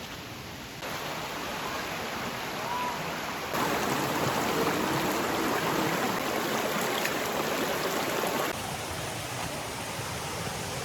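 Flowing stream water, a steady rushing hiss that jumps abruptly louder about three and a half seconds in and drops back about eight and a half seconds in.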